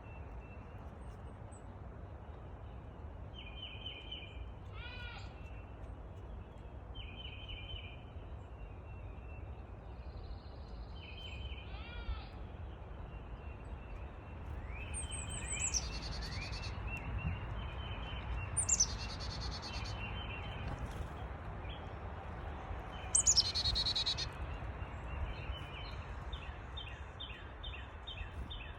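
Several small birds calling: short chirps repeated throughout, with three louder high notes sliding downward in the second half. A steady low rumble runs underneath.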